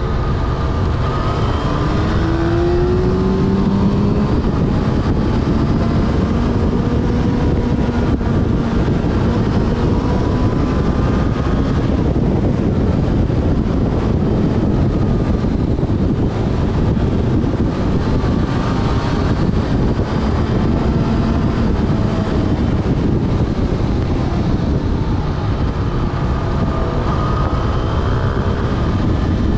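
Yamaha Fazer FZ6S motorcycle's inline-four engine running at road speed, its pitch rising and falling several times with throttle and gear changes, under a steady rush of wind on the bike-mounted action camera's microphone.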